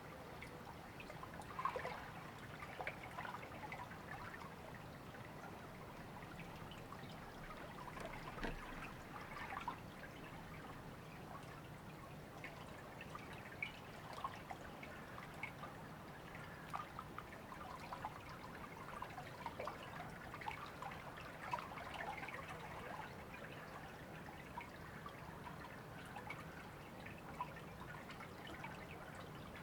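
A small river or stream trickling and babbling over stones, with a steady wash and many small irregular splashes and drips.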